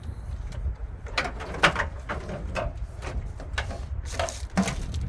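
Low, steady wind rumble on the microphone, with a series of irregular knocks and clatters, the loudest about a second and a half in and again near the end.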